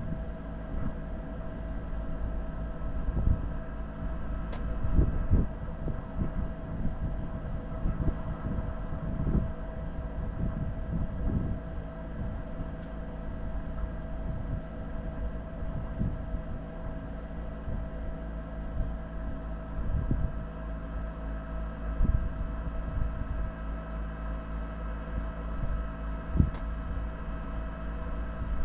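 4x4 driving over a rough off-road track: the engine runs steadily under a low rumble, with irregular thumps and knocks from the vehicle going over bumps.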